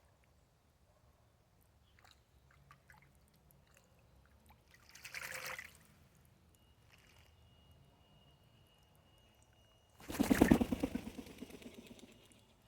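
Wood pigeon bathing in shallow water: faint drips, then a short bout of splashing, then a louder, longer bout of rapid wing-flapping splashes about ten seconds in that tails off.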